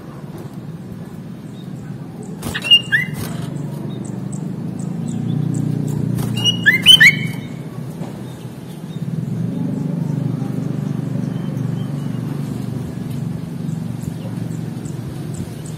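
Sooty-headed bulbul giving two short phrases of bright whistled notes that slide in pitch, about three and seven seconds in, over a steady low hum.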